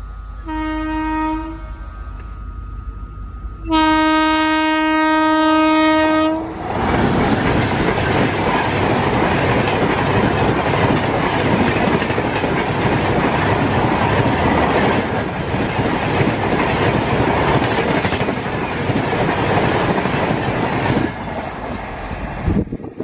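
Electric locomotive's horn: a short blast, then a long one of about three seconds as it approaches. Then the Rajdhani Express coaches rush past at speed with wheels clattering for about fourteen seconds, the noise dropping near the end as the train goes away.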